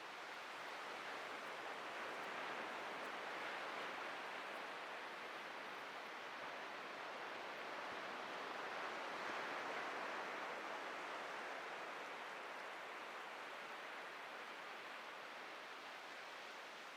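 Atlantic surf washing onto a beach: a steady hiss of breaking waves that swells gently twice, a few seconds in and again near the middle.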